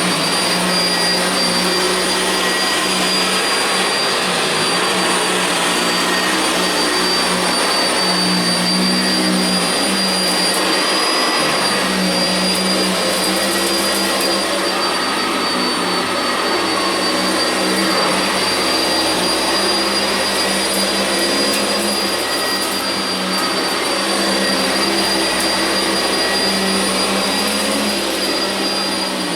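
Sanitaire SC679J upright vacuum cleaner running steadily while vacuuming carpet: a constant rush of air with a steady high motor whine.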